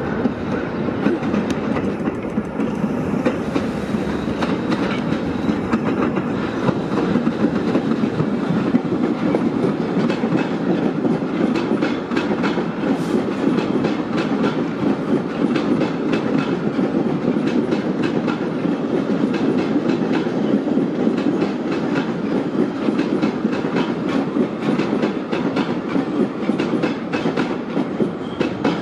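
New York City Subway train running past on the rails for the whole stretch, a loud steady rumble with a fast run of wheel clicks over the rail joints.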